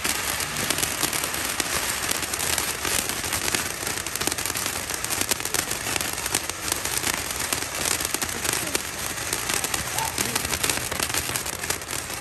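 Consumer firework fountain burning with a steady hiss and dense, rapid crackling.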